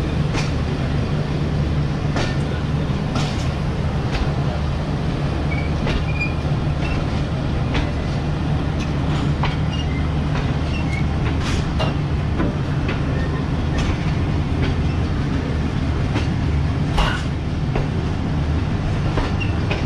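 Passenger train running, heard from on board: a steady low rumble of wheels on rails, with sharp clacks at irregular intervals as the wheels cross rail joints. The loudest clack comes about seventeen seconds in.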